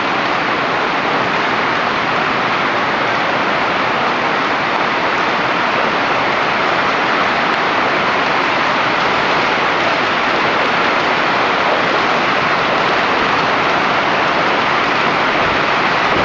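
Heavy rain pouring down steadily as a hailstorm turns to rain.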